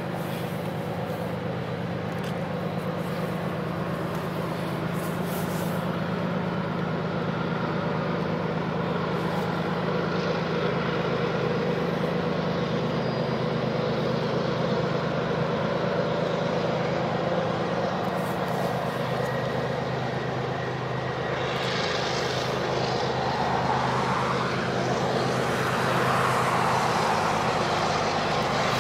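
Diesel locomotives of a freight train drawing nearer, a steady low engine drone that grows slowly louder over the steady rush of river rapids. A rising whine comes in about three quarters of the way through.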